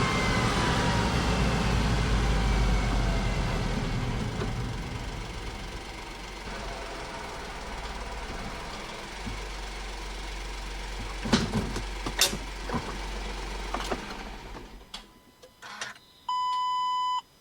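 Honda S660's small turbocharged three-cylinder engine running, its pitch falling over the first few seconds and then settling lower and fading. A few sharp clicks follow about halfway through. The engine stops about three-quarters of the way in, and a short electronic beep sounds near the end.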